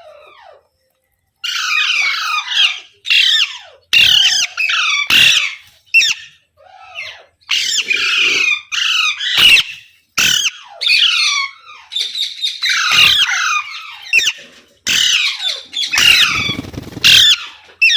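Pet Indian ringneck parrot screeching, a rapid series of loud, harsh calls one after another with short gaps between them.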